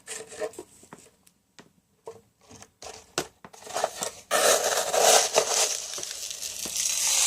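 Small-grain masato (decomposed granite grit) being poured onto potting soil in a plant pot: a few scattered clicks and rustles, then from about four seconds in a steady hiss of grit pouring.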